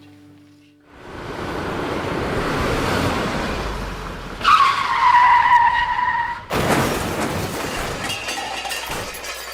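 A car approaches with rising noise, then its tyres screech for about two seconds and end in a sudden loud crash: a staged car accident sound effect.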